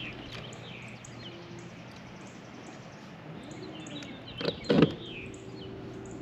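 Songbirds chirping with short falling calls over a low steady hum, broken about four and a half seconds in by two loud knocks close together.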